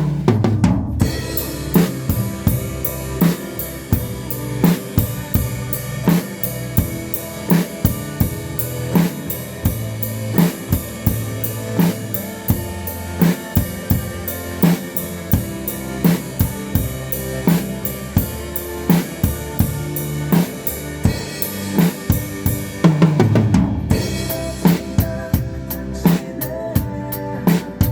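Drum kit played along to a recorded worship song: a steady beat of kick drum and snare with cymbals, over the song's band track.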